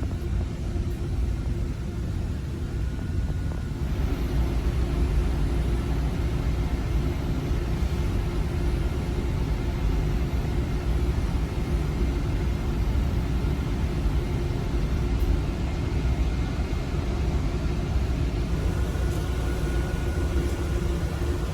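A steady low machine rumble and hum, with a hiss that swells about four seconds in.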